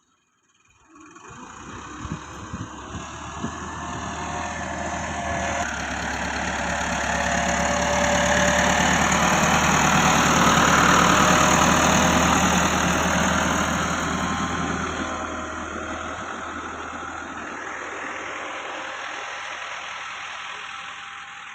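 Massey Ferguson 385 tractor's diesel engine running. It starts about a second in, grows louder to a peak about halfway through, then eases off. A few knocks sound about two to three seconds in.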